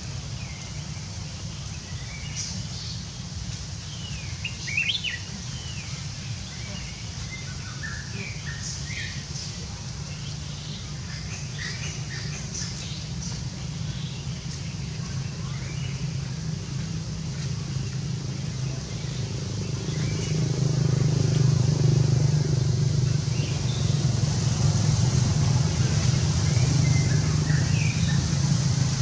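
Small birds chirping in scattered short calls, over a steady low rumble that swells louder about two-thirds of the way through.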